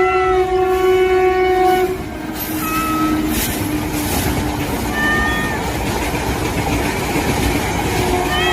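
A train horn sounds one steady note and cuts off just under two seconds in. A rumbling train running noise follows, with a few short high chirps, and the horn comes back near the end.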